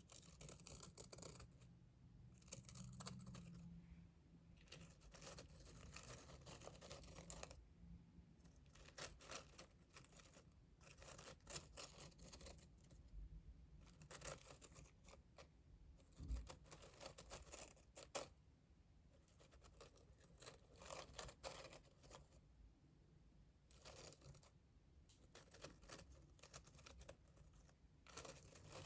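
Soft, close-miked scratching and brushing in short irregular strokes, as ASMR sleep triggers, with a single light knock about halfway through.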